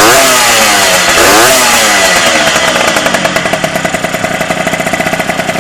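Derbi DRD two-stroke motorcycle engine, freshly rebuilt and on its first start, revved twice and then settling to a steady idle from about two seconds in.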